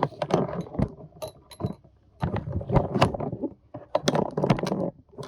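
Rustling and scraping of leaves and scraps as the compost in a worm bin is handled and dug through, in three short bursts of close-up noise with pauses between them.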